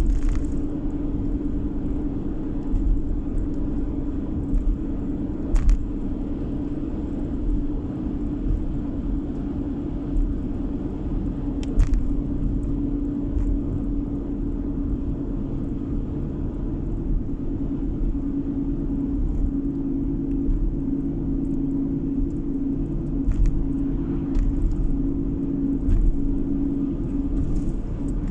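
A car driving, heard from inside the cabin: steady low road and engine noise with a constant hum. A few light knocks come through, about six and twelve seconds in and several times near the end.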